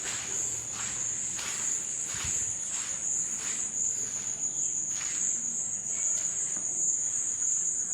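Insects chirring in one steady, high-pitched, unbroken tone, with faint regular taps, likely footsteps, through the first few seconds.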